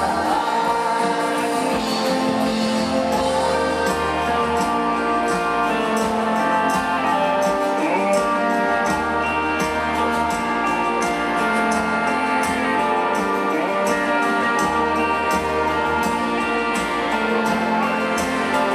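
Live rock band music in an instrumental passage between vocal lines: sustained instrumental chords over a steady beat with regular cymbal hits.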